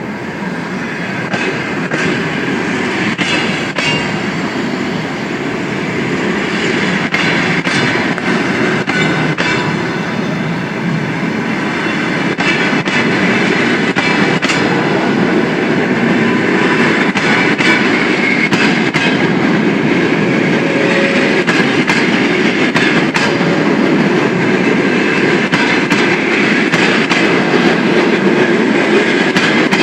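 Express passenger train rolling past as it pulls away, its wheels clicking in a steady run over the rail joints, growing a little louder.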